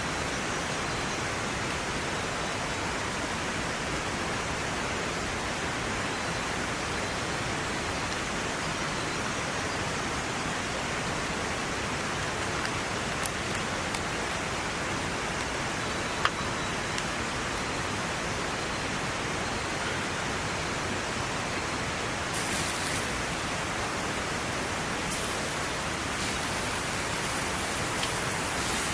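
Steady, even hiss of water, with a few brief sharp ticks around the middle.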